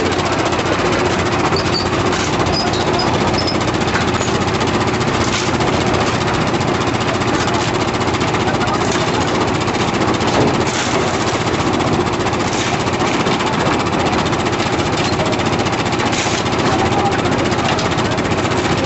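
Engine of concrete-handling machinery running steadily, a loud continuous mechanical noise with no let-up, as mixed concrete is moved into the lift machine's bucket.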